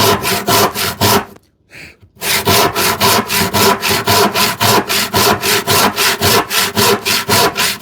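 A 10 TPI Spear and Jackson hand saw, filed to rip teeth, crosscutting a glued-up wooden panel in quick, even strokes, about four a second. The sawing breaks off briefly about a second in, then resumes.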